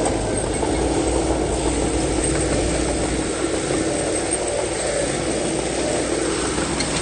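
Heavy diesel earthmoving machinery (bulldozer or dump truck) engine running steadily, with a held engine note for a few seconds about a second in.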